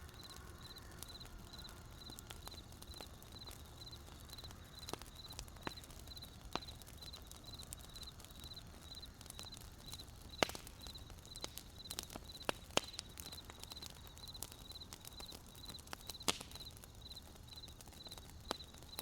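Wood campfire crackling, with scattered sharp pops, the loudest about ten and sixteen seconds in, over a low steady burning hiss. Crickets chirp steadily throughout in an even, high-pitched pulse.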